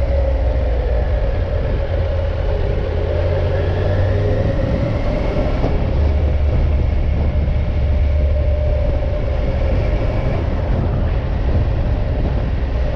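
Motorcycle riding at a steady speed: the engine runs at an even pitch that drifts gently up and down, over a heavy low rush of wind and road noise.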